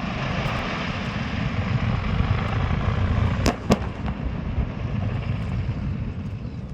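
Steady rushing roar of a gas-cylinder truck fire over a low rumble, with two sharp bangs a fraction of a second apart about halfway through: cylinders bursting in the blaze.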